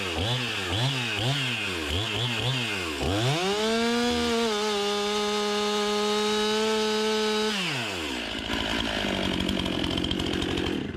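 Two-stroke Stihl chainsaw cutting a red oak log. Its engine speed rises and falls repeatedly for the first three seconds, then climbs and holds high and steady for about three seconds, before dropping back to a lower speed about eight seconds in.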